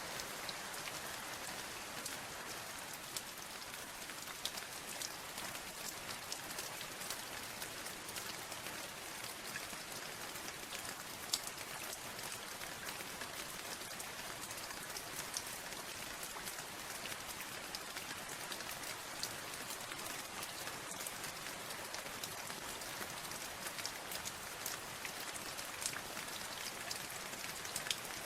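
Steady rain falling, a dense hiss with many individual drops pattering on a surface, one drop louder than the rest about eleven seconds in.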